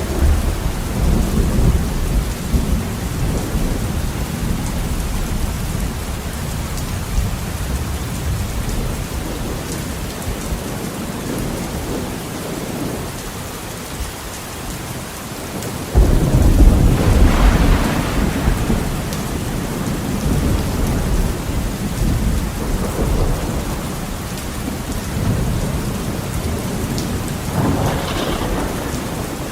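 Heavy rain falling steadily on a window, with rolling thunder: a rumble at the start that fades over several seconds, and a louder clap that breaks in suddenly about halfway through and rumbles away, with a smaller rumble near the end.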